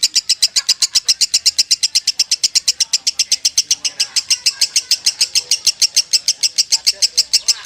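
Lovebird singing in the long, unbroken 'konslet' style: a rapid, steady chatter of sharp high notes, about nine a second, without a pause.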